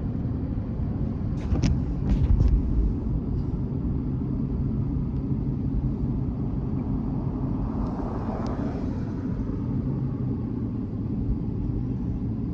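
Steady engine and road rumble heard from inside a moving vehicle driving on snow-covered roads, with a few brief knocks about two seconds in.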